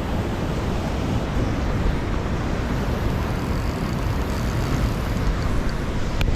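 Wind buffeting the microphone: a steady low rumbling noise, with a single sharp click near the end.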